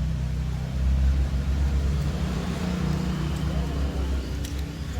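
A steady low engine hum runs in the background, with a few light metallic clicks near the end.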